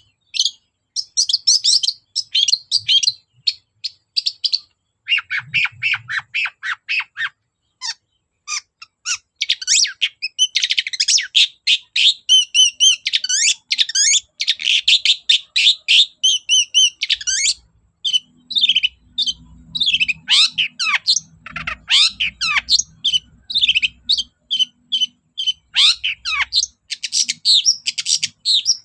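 Long-tailed shrike (cendet) singing vigorously: a rapid, varied song of many short chattering notes in long runs, broken by brief pauses.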